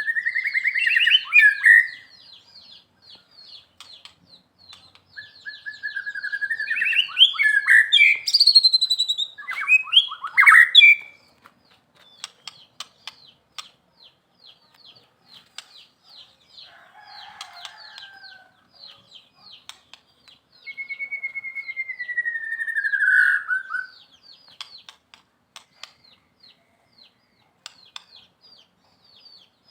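White-rumped shama (murai batu) singing: three loud bouts of rich, varied whistled song with quick rising and falling notes, the last a long falling whistle, separated by pauses. A fast, high-pitched ticking chatter runs steadily underneath.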